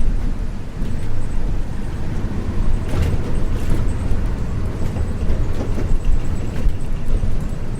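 Isuzu U-LV224N bus's 6QB2 diesel engine running steadily under way, heard from inside the cabin over road noise. A brief rattle comes about three seconds in.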